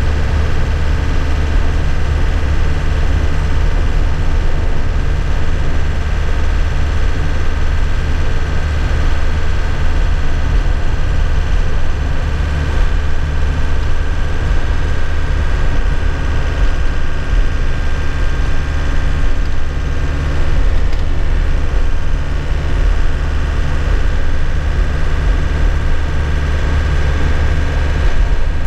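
Nissan Cabstar light truck's diesel engine running at a steady speed, heard from inside the cab.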